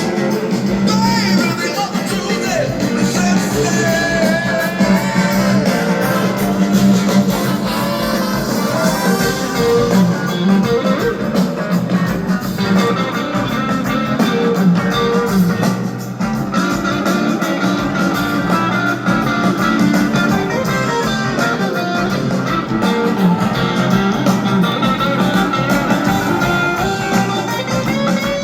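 Live blues-rock band playing an instrumental passage, with an electric guitar lead bending and gliding between notes over bass and drums.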